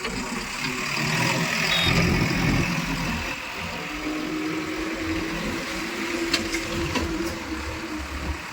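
Diesel engines of heavy farm and earthmoving machinery running steadily, louder for a stretch about a second in. A steady hum joins about four seconds in, with a couple of sharp clicks near the end.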